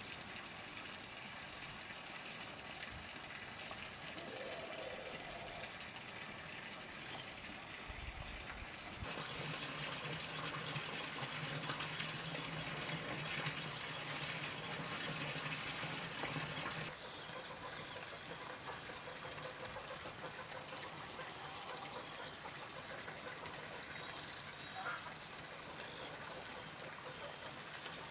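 Water running or gushing steadily. It grows louder about nine seconds in, with a low hum under it, and drops back abruptly about eight seconds later.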